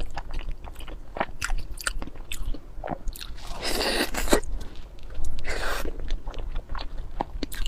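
Close-miked ASMR eating: chewing and biting food, with many short wet clicks and two longer crunchy bites, about four and about five and a half seconds in.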